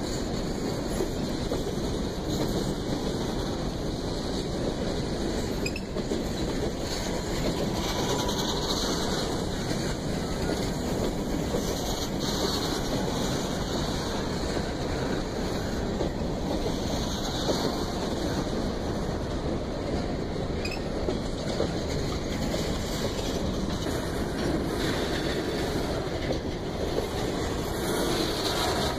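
Freight train's boxcars rolling past, a steady noise of steel wheels running on the rails.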